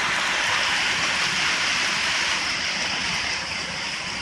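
Heavy rain pouring down and hitting the ground, a steady dense hiss that eases slightly near the end.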